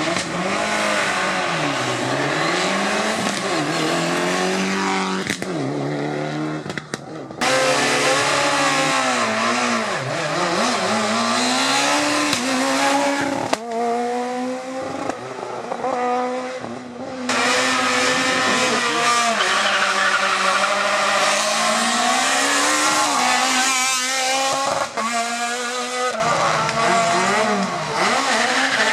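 Rally car engines revving hard, the pitch rising through each gear and dropping on lifts and shifts. The sound breaks off abruptly several times as it moves from one car or clip to the next.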